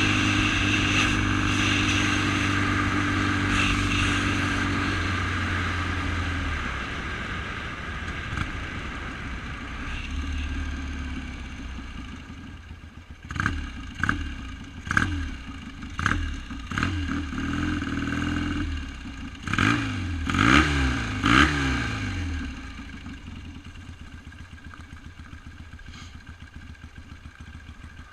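1971 BSA Lightning's 650 cc parallel-twin engine running steadily, then blipped sharply about eight times in quick succession around the middle, each rev rising and falling. It then settles back to a quieter idle.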